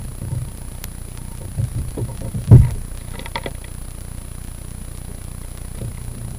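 A few knocks and one loud thump about two and a half seconds in, over a steady low rumble, followed by a brief faint clicking.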